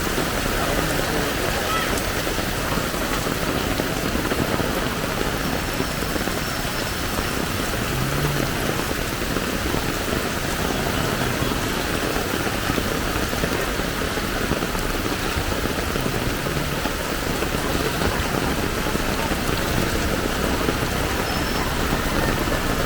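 Heavy downpour: rain falling steadily, a dense even hiss.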